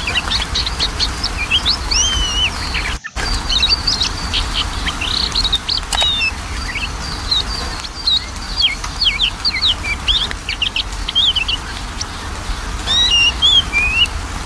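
Oriental magpie-robin singing: a fast, varied run of whistles and chirps with quick rising and falling notes, over a steady low hum. The sound cuts out briefly about three seconds in.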